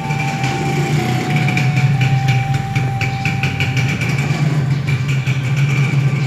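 A steady, loud mechanical drone, like a running engine or a passing train, with a thin steady tone over it for the first four seconds and rapid ticking in the middle.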